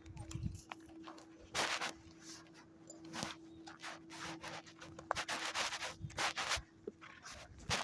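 Footsteps crunching along a path with clothing rubbing and rustling, an irregular scraping every half second or so.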